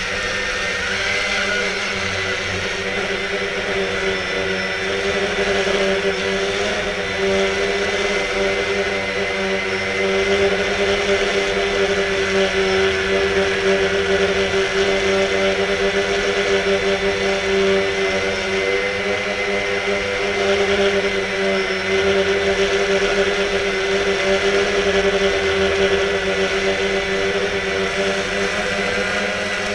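Quanum Nova quadcopter's four brushless motors and propellers whining steadily in flight, the pitch wavering a little as the motors adjust speed, with gusty wind buffeting the microphone.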